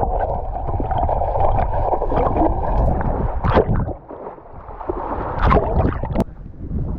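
Lake water sloshing and splashing around a person wading or swimming in the shallows, with a few sharper splashes in the second half.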